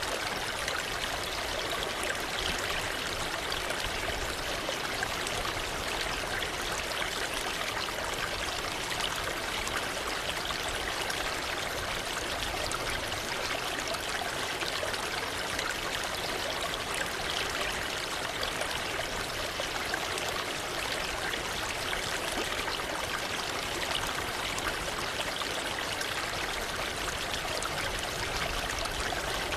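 Waterfall: falling water splashing and rushing in a steady, unbroken hiss.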